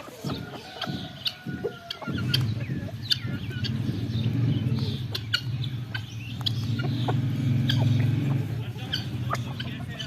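Chickens and other aviary birds calling: short clucks and chirps with scattered clicks, over a low steady hum that starts about two seconds in and fades near the end.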